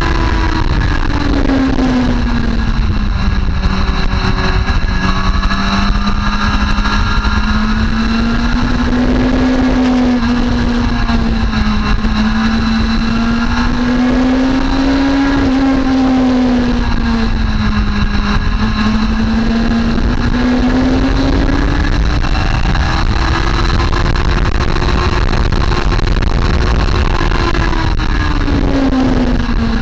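Motorcycle engine running under load on a racetrack, its pitch rising and falling smoothly as the throttle opens and closes, over a steady low rumble.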